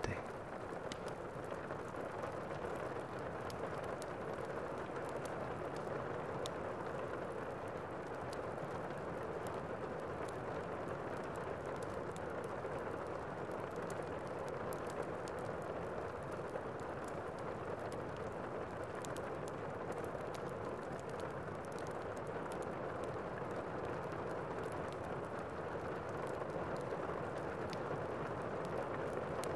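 Steady rain ambience, an even hiss of falling rain with faint scattered drop ticks.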